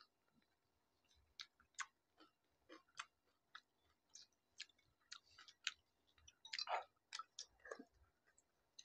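Crisp, hollow pani puri shells being cracked and chewed by mouth, quietly, with short crackly crunches at irregular intervals and one longer, louder crunch about two-thirds of the way through.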